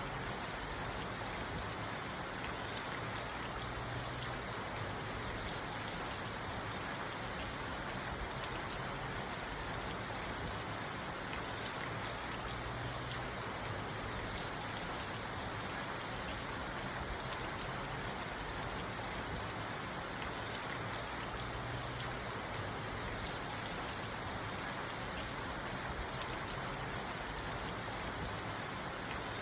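Steady rain falling on a parked car's roof and windows, heard from inside the car.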